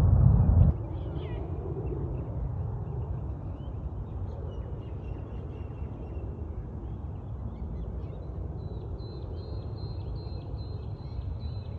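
Birds calling, with scattered high calls and a denser run of quick repeated high calls near the end, over a steady low rumble. A louder low rumble cuts off abruptly under a second in.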